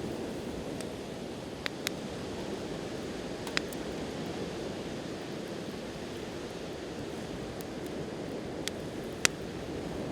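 Wood campfire crackling, with a few sharp pops, the loudest near the end, over a steady wash of sea waves.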